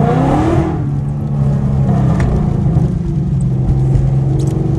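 Mustang GT's 5.0 V8 revving up sharply in a brief hard pull, its pitch rising for about half a second, then running on steadily at lower revs.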